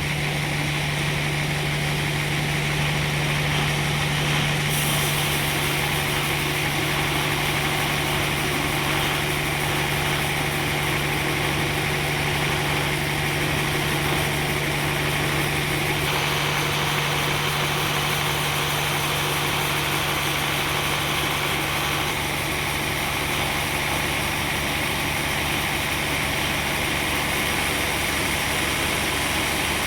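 Sawmill machinery running steadily with a constant low hum under a broad noise, small changes in the upper noise about five seconds in and again near the middle.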